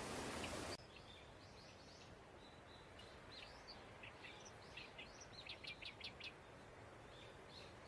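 A steady rushing noise cuts off abruptly under a second in, leaving faint bird chirps. A quick run of about seven sharp chirps comes around the middle.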